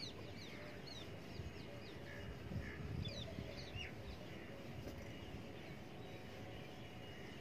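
Faint bird chirps outdoors, a scatter of short falling calls in the first few seconds, over the soft rubbing of a felt duster wiping a whiteboard.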